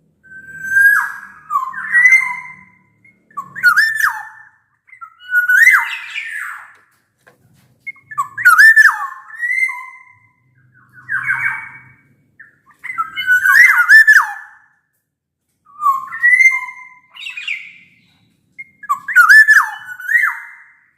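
Black-naped oriole (kepodang) singing: loud, fluting whistled phrases with sliding pitch, repeated every one and a half to two seconds with short pauses between.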